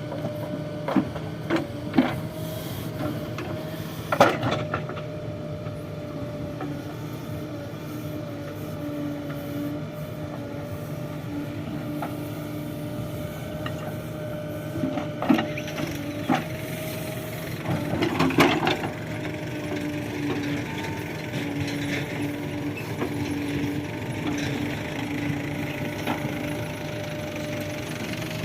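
JCB 3DX backhoe loader's diesel engine running steadily with a constant whine, with several clanks and knocks as it digs and loads mud, the loudest cluster about two-thirds of the way in.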